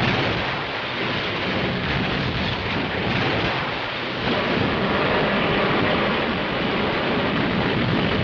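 A ship's hull grinding along an iceberg: a loud, continuous rumbling, scraping noise with no tone to it.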